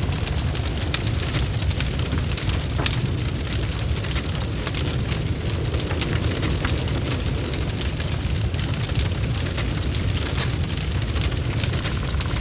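Wood fire crackling, with many sharp irregular pops and snaps over a steady low rumble of flames.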